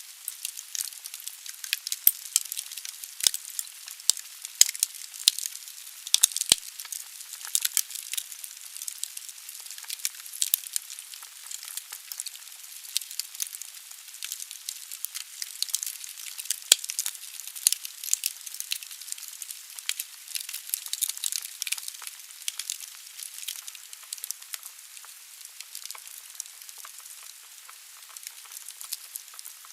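Wood fire burning in a fireplace: a steady high hiss with many irregular sharp crackles and pops from the burning logs.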